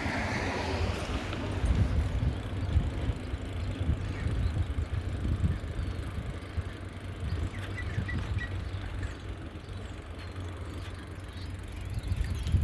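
Riding noise from a moving bicycle: wind buffeting the microphone in an uneven low rumble over a steady rush of tyres on the path. A few faint high chirps come about eight seconds in.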